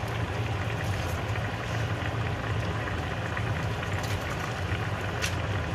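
Chicken and vegetable stew bubbling in a pot on the stove, with a steady low hum and a couple of light clicks near the end.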